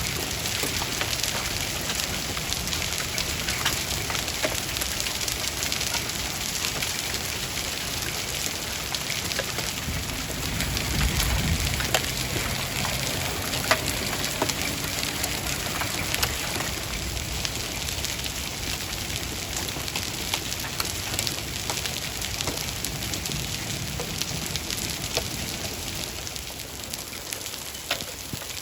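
Hail falling steadily: a dense patter of hailstones with many sharp clicks over a steady hiss. A low rumble swells briefly about eleven seconds in.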